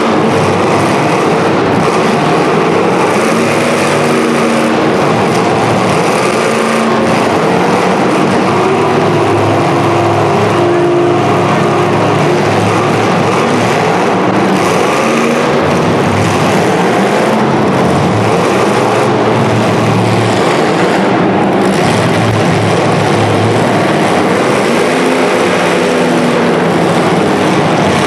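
Several demolition derby cars' engines revving hard at the same time, their pitches rising and falling over one another in a loud, continuous din.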